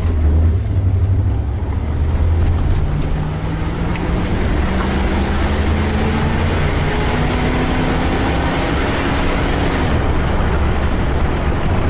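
Chrysler Cordoba's 360 V8 engine and road noise heard from inside the cabin while driving. The engine note rises steadily for several seconds as the car picks up speed, with road and wind noise growing alongside it, then falls off near the end.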